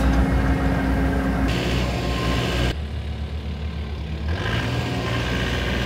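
Excavator diesel engine running steadily while backfilling, its sound changing abruptly a couple of times.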